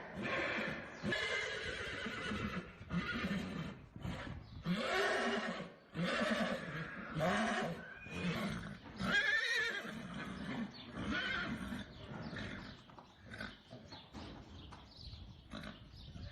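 Horses whinnying, one call after another, each a high, wavering neigh that rises and falls; the calls thin out toward the end.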